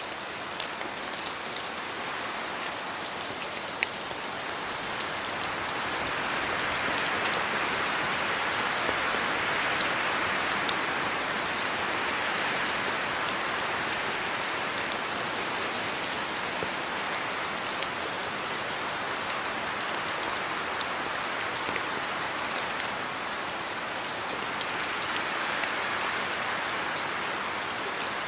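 Steady rain: a dense hiss with separate drops ticking through it. It swells heavier for several seconds near the middle and again briefly near the end.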